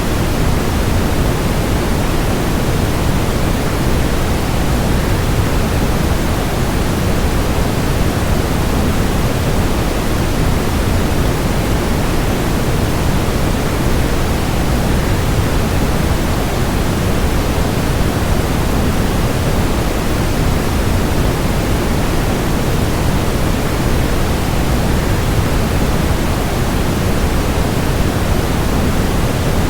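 Waterfall sound mixed with white noise: a steady, even rushing hiss, heaviest in the low end, that never changes.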